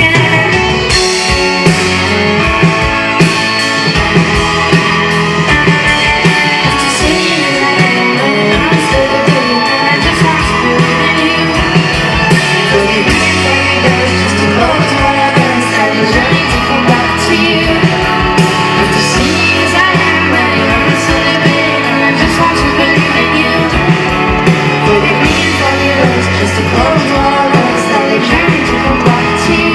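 Live pop-rock band playing a song, with singing over a steady drum beat and bass notes.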